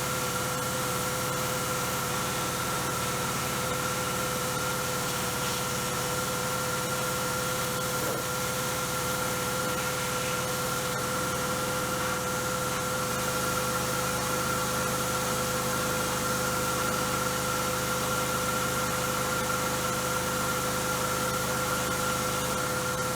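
A machine running steadily with a constant hiss and a steady whine, its low hum growing a little stronger about halfway through.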